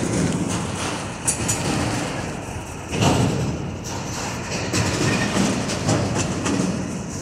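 Norfolk Southern freight train's cars rolling past, a steady low rumble with wheels clicking on the rails, swelling louder about three seconds in.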